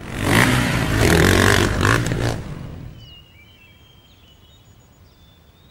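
A vehicle engine running loudly for about two seconds, the sound of a stuck vehicle straining on the rails, then stopping. Faint birds chirp after it.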